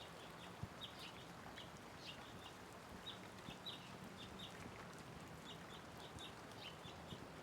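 Light rain falling on a wet road, a soft steady hiss, with small birds chirping in short high notes several times a second throughout. A few single drips knock now and then.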